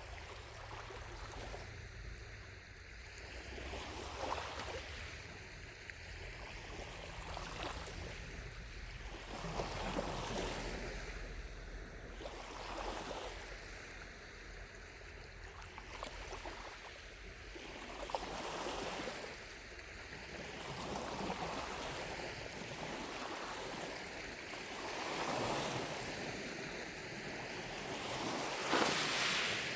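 Small lake waves lapping at the shore, a soft wash swelling and fading about every two seconds, the biggest one near the end.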